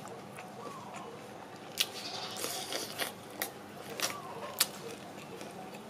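Crispy fried chicken being bitten and chewed, with sharp crackling crunches of the fried coating: a rough crunching patch about two seconds in, then single crisp cracks every half second or so.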